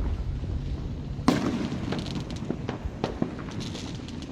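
Aerial fireworks shells bursting: one sharp boom about a second in, followed by a scatter of fainter pops and crackles.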